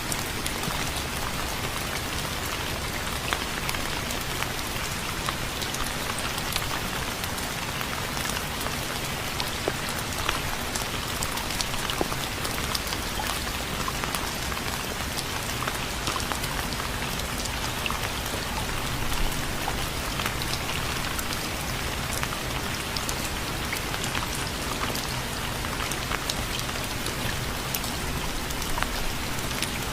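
Steady rain falling, an even hiss sprinkled with the sharp ticks of single drops hitting a surface.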